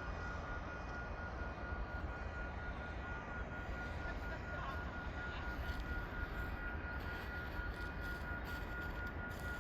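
Steady low rumble of an approaching train, the CPKC GP20C diesel locomotive still some way off, with a thin steady high-pitched tone over it.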